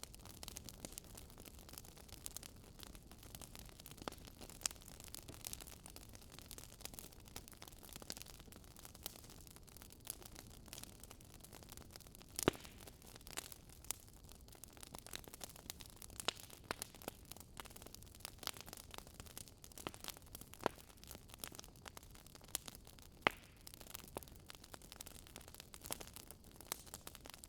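Wood fire crackling: irregular sharp pops and snaps over a soft steady hiss of burning logs.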